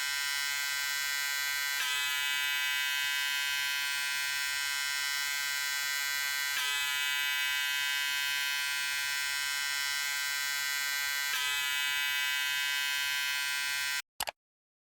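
Electric shaver buzzing steadily with a dense, even hum. It cuts off abruptly about a second before the end, followed by a brief click.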